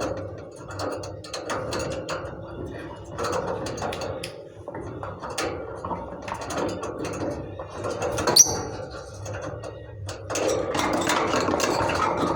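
Lovebirds chattering: rapid clicking, rattling calls, with one sharp high chirp about eight seconds in.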